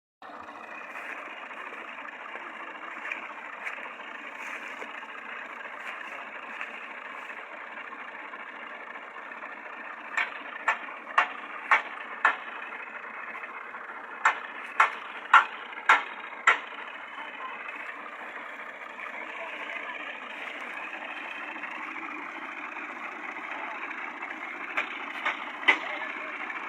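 Tractor engines running steadily under load. Two runs of sharp, evenly spaced bangs, about two a second, come through the middle, and a few more near the end.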